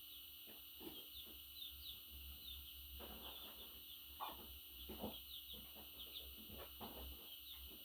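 Pet budgerigar chirping softly in quick, short high chirps, with a few louder clicks and taps between them.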